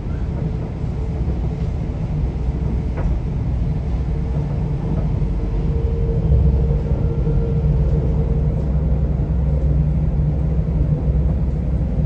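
Elizabeth line Class 345 train running, heard from inside the carriage: a steady low rumble with a faint steady hum above it.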